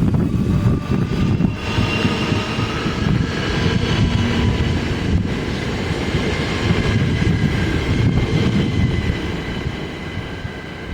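A train passing: a loud low rumble with faint steady high tones over it, easing off near the end.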